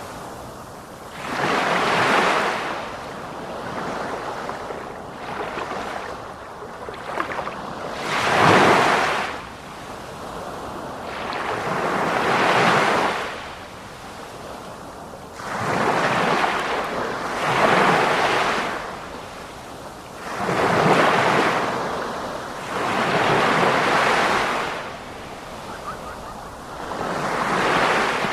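Sea waves breaking and washing on a shore, surging and falling away in a slow irregular rhythm, about one swell every two to four seconds.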